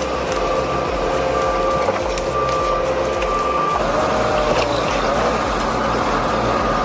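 Logset 6F forestry forwarder's diesel engine running under load, with a steady high whine over the rumble that shifts to a wavering pitch about four seconds in.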